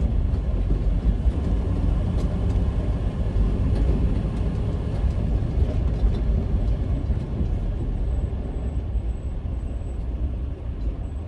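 Semi truck driving, a steady low engine and road rumble that eases slightly near the end.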